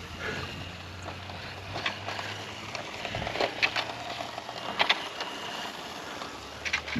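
X-Rider Mars 1/8-scale RC motorcycle's motor running with a faint whine, over a steady low hum, with a few sharp clicks and ticks about two, three and a half, and five seconds in.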